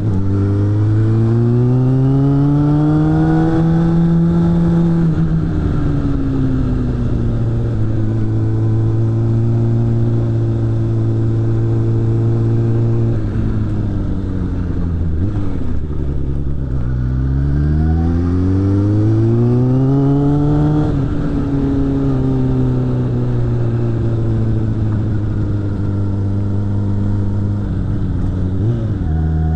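Suzuki GSF600 Bandit's inline-four engine through a BOS aftermarket exhaust, ridden on the road. The revs climb, hold and fall twice, with steady cruising between, and a short dip from a gear change near the end.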